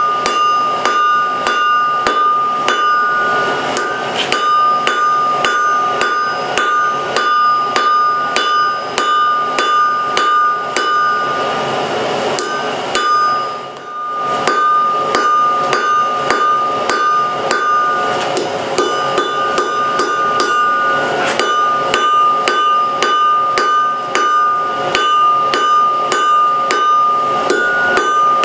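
Blacksmith's hammer striking steel on an anvil in a steady rhythm, about two to three blows a second, with the anvil ringing a clear tone between blows. The hammering breaks off briefly about halfway through, then carries on.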